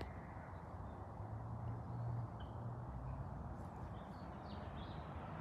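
Outdoor ambience: a steady low rumble with a few short, faint bird calls, the calls coming about two seconds in and again around four seconds in.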